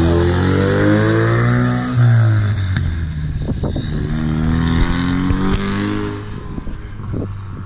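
Turbocharged car engine accelerating hard through the gears. Its pitch climbs, drops at a shift about two seconds in, climbs again and drops at another shift about five and a half seconds in, then eases off. The run made about 24 psi of boost at part throttle.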